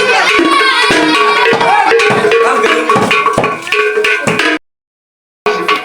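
Traditional local percussion music played live, with hand drums and other percussion keeping a dense rhythm and voices mixed in. It drops out to dead silence for under a second near the end, then resumes.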